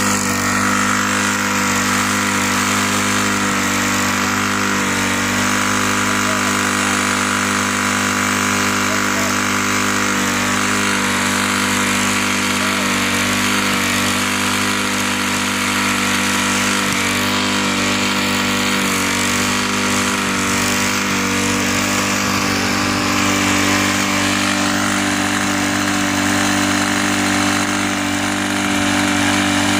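Small single-cylinder go-kart engine running at a steady, unchanging speed while being run to seize after losing much of its oil.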